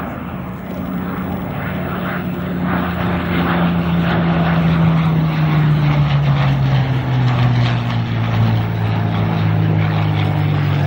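Propeller warbird's piston engine droning as it flies past, growing louder over the first few seconds and slowly falling in pitch as the plane passes.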